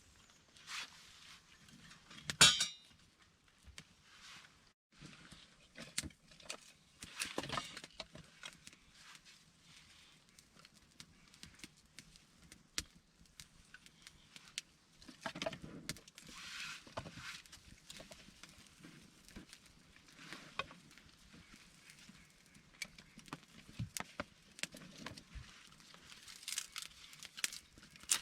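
Intermittent rustling, clicks and knocks of things being handled or moved, with one sharp knock about two and a half seconds in.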